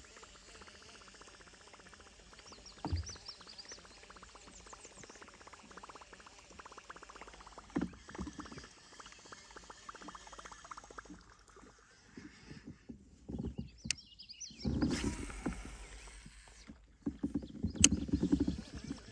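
Sounds of fishing from a kayak: a run of fine, rapid ticks like a reel being cranked, with a few knocks on the hull. Louder bursts of splashing or handling noise come near the end.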